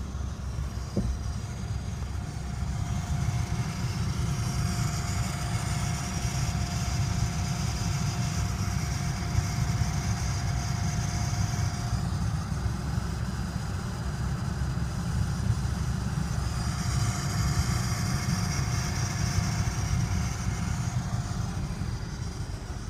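2000 Honda Insight air-conditioning system running on a car that is idling, under a steady low rumble. A thin, steady whistle and a high hiss come in for several seconds, fade away, and return near the end. The owner is unsure whether this hissing and whistling is a fault.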